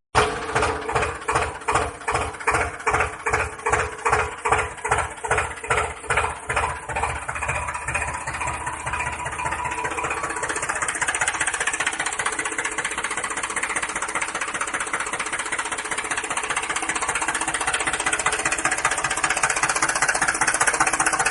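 Motor of a homemade mini tractor running, with a pulsing beat of about two a second at first that quickens and smooths into a steady, even run after several seconds.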